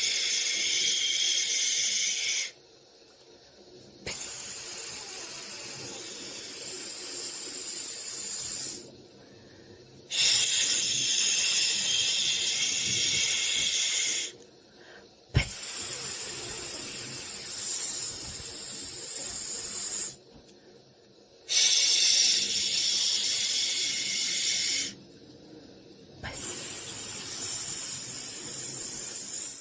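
Shushing: long hissing "shhh" sounds, each lasting a few seconds, repeated about six times with short breath-length pauses between them, a soothing sound for getting a baby to sleep.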